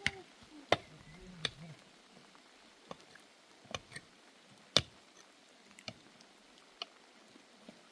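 Irregular sharp knocks and clicks, about ten, spaced unevenly, with a brief voice in the first second or two.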